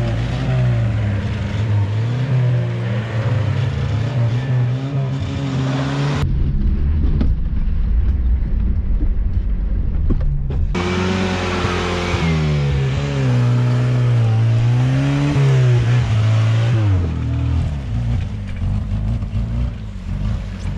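Suzuki Vitara 4x4 engine revving and easing off again and again as it is driven off-road, its pitch rising and falling. For a few seconds in the middle it sounds duller, and it runs steadier near the end.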